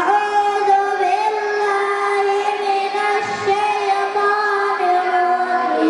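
Children singing together in unison, holding long, steady notes with small steps in pitch.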